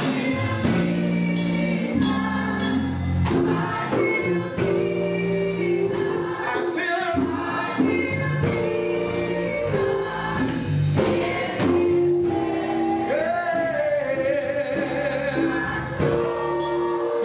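Gospel choir singing with instrumental accompaniment, held notes over a steady beat.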